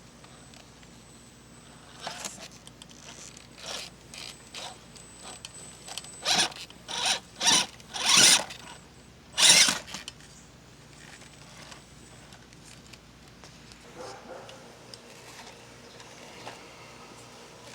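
Radio-controlled rock crawler's electric motor and gear drive whirring in short bursts of throttle, about a dozen between two and ten seconds in, the loudest two near the end of that run, with quieter crawling after.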